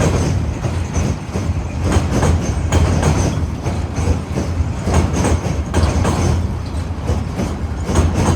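DSG-class diesel-electric shunting locomotive running with its train, a steady low engine hum under repeated clacks of wheels over rail joints.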